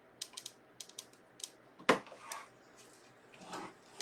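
Light clicks and taps of objects being handled on a tabletop, with a sharper knock about two seconds in and brief rustles.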